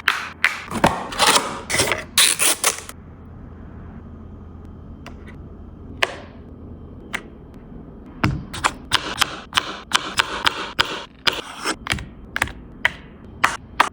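Plastic snack containers and food packaging being handled: sharp clicks and taps mixed with crinkling, dense at first, sparse for a few seconds in the middle, then dense again.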